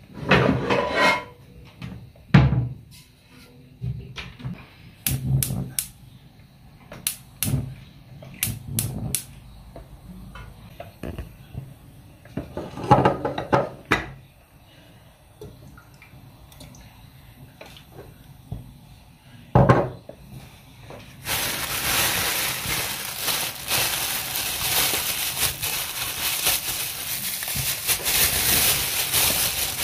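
Kitchen handling sounds: scattered clicks, knocks and clatters of dishes and utensils being set down and moved. About two thirds of the way in, a steady loud hiss starts and keeps on.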